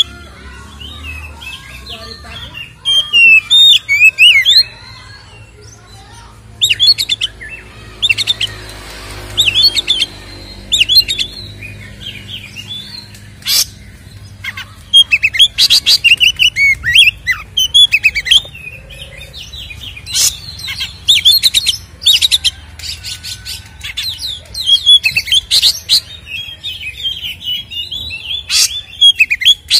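Oriental magpie-robin (kacer) singing loud, varied bouts of quick whistles and chirps, with short pauses between bouts.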